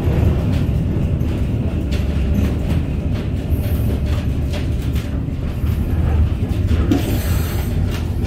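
A vintage electric tram running along its street track: a steady low rumble from the wheels and running gear, with scattered clicks and knocks.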